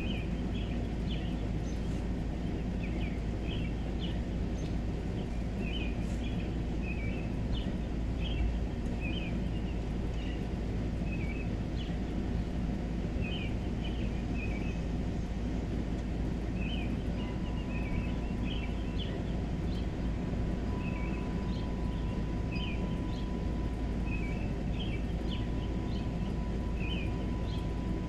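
Evening outdoor ambience: short high chirps repeating about once a second over a steady low rumble, with a faint steady tone coming in about halfway through.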